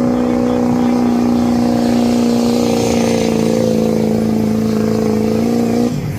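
Diesel pickup truck engine held at steady, high revs under full throttle on a pulling run. It eases off slightly near the end.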